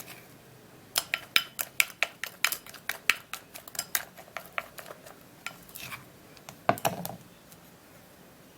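A spoon clinking against a bowl as a thick face-mask paste is stirred, about two to three clicks a second for several seconds, ending in a duller knock about seven seconds in.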